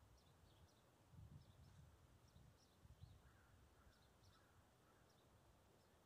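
Small songbirds chirping faintly, short high falling notes repeated over and over. Brief low rumbles come about one second and three seconds in.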